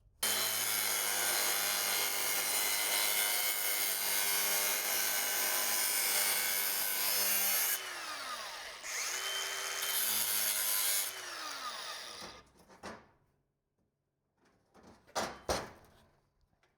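Angle grinder with a cut-off wheel cutting a notch in steel. It runs hard for about eight seconds, eases off briefly, then cuts again before the motor winds down with a falling whine. A few sharp metal knocks follow near the end.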